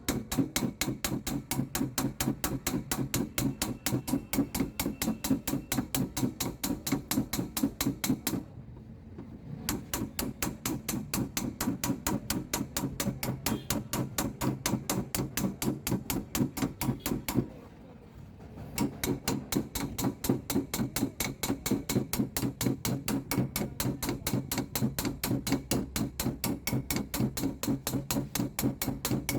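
Rapid, even hammer taps on car door sheet metal during paintless dent repair, several taps a second, in three runs with two short pauses.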